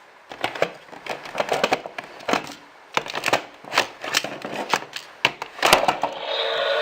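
Irregular clicks and knocks of a hard plastic toy playset being handled and its parts pressed. About six seconds in, a steadier rushing sound with a few held tones begins.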